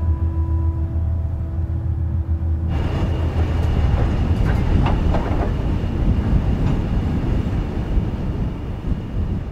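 A low steady drone gives way, about three seconds in, to the running noise of a loaded iron-ore train on the Mauritania Railway: a dense rumbling and rattling of the ore wagons, with a few short metallic noises in the middle.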